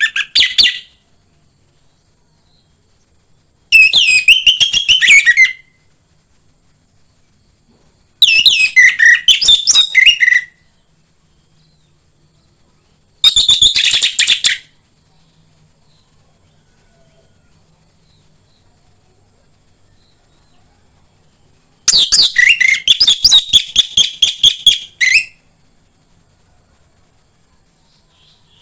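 Orange-headed thrush singing loud phrases of rapid chirping notes, each one to three seconds long, with pauses of several seconds between them. The last phrase, near the end, is the longest. A faint steady high hiss runs underneath.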